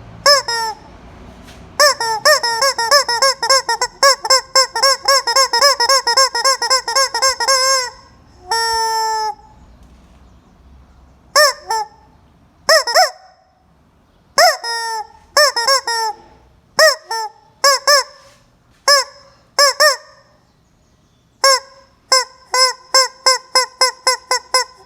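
A chicken calling loudly over and over in short honking squawks, first in a fast run of about five or six a second, then in single or paired calls a second or so apart, with another fast run near the end.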